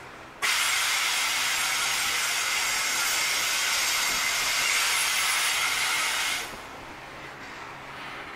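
Loaded coal hopper wagons rolling slowly past, with a loud hiss from the train that starts suddenly about half a second in and dies away about six and a half seconds in, over a faint low rumble.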